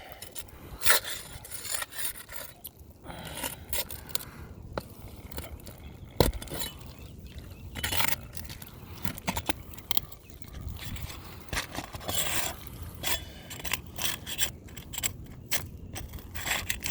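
Asphalt roof shingle being worked loose and lifted: irregular scraping and crackling, with sharp clicks about a second in and again around six seconds in.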